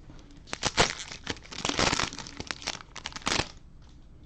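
Crinkly plastic wrapper of a trading card cello pack crackling as it is handled and opened, in a run of irregular crackles that stops shortly before the end.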